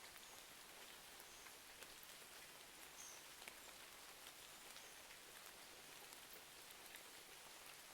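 Faint, steady hiss of rain, sprinkled with small, sharp crackles and ticks from a wood fire.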